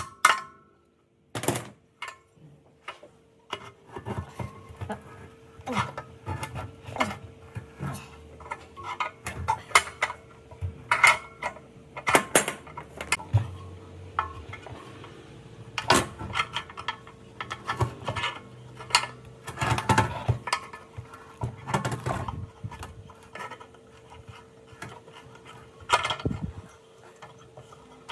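Irregular metallic clinks and knocks of metal parts and hand tools being handled and set down, over a faint steady hum.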